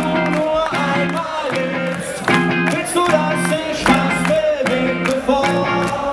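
Rock band playing live: chopped, rhythmic electric guitar chords about twice a second with drums, under a sustained melody line that slides in pitch.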